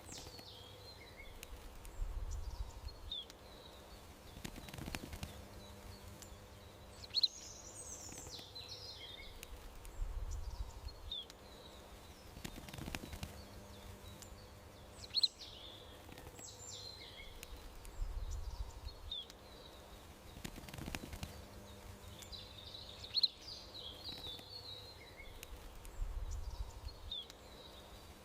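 Small songbirds chirping and trilling in short, high calls, with the same pattern of calls coming back about every eight seconds, over a faint steady hum and soft low rumbles.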